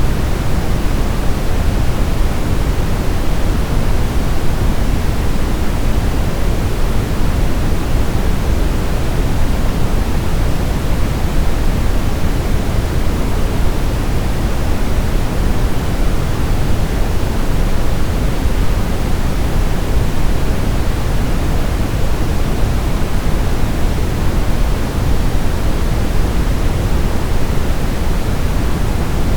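Brown noise: a steady, even hiss with its weight in the low end, unchanging throughout.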